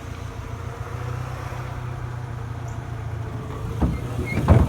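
Saab 900 Commemorative Edition's turbocharged four-cylinder engine idling steadily through an Abbott aftermarket exhaust, a low even hum. Two thumps come near the end, the second louder.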